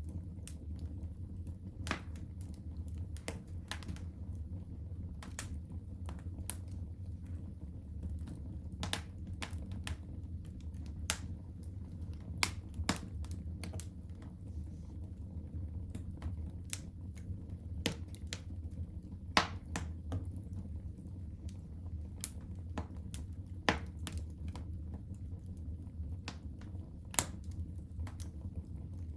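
Fire crackling in a fireplace: irregular pops and snaps, a few of them sharper and louder, over a steady low rumble of the burning fire.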